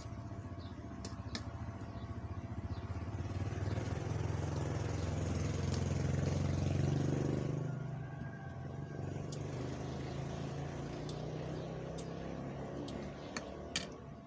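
A motor vehicle's engine hum, growing louder to a peak about seven seconds in and then fading. A few sharp clicks sound over it, with a louder one near the end.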